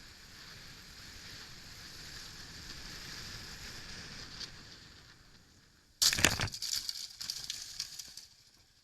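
Car collision: a sudden loud crash about six seconds in, followed by about two seconds of crunching and clattering debris, after a faint steady hiss.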